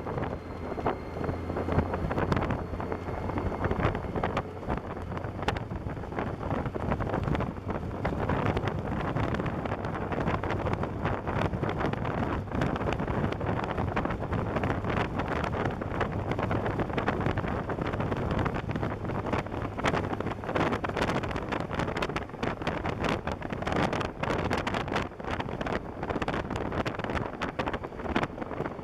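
Wind rushing and buffeting over the microphone of a camera on a motorcycle at highway speed, with a steady low drone from the bike underneath.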